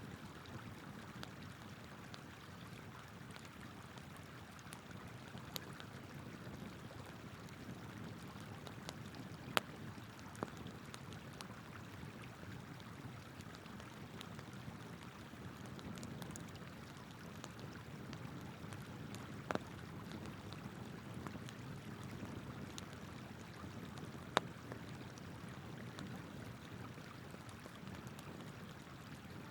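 Flowing river water running steadily, with a wood campfire crackling and a handful of sharp pops scattered through.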